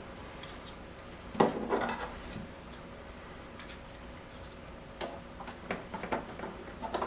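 Washer door parts being handled and fitted together: a sharp knock about one and a half seconds in followed by a few rattling taps, then scattered light clicks near the end.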